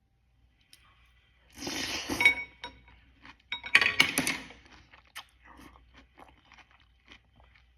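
A fork clinks and scrapes against a dish in two bursts. Then comes close-up chewing of crunchy raw zucchini noodles, with many small wet clicks.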